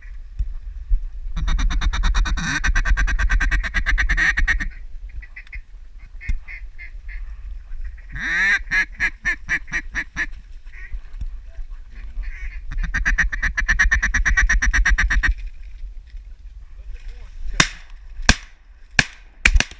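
Duck calls blown in long runs of rapid quacking chatter, three times over. Near the end come four sharp shotgun blasts in about two seconds as the birds come in.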